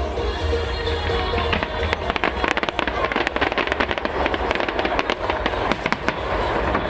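Fireworks display: a dense run of rapid crackles in the middle, over a steady low rumble.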